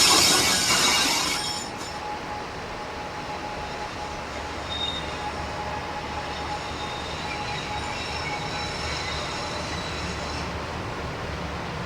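Train on a narrow-gauge rack railway running along the track, its wheels squealing on the rails. The squeal is loud at first and falls away over the first second or two, leaving a quieter steady running sound with faint high squeals that fade out near the end.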